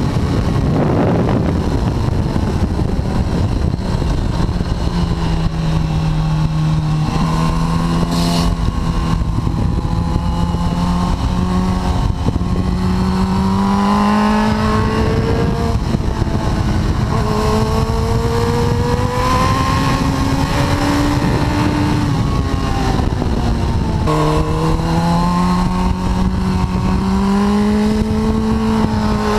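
2004 Suzuki GSX-R1000 K4's inline-four engine at full race pace, its pitch climbing in long pulls and dropping sharply several times at shifts and corners. A heavy wind rush runs under the engine the whole time.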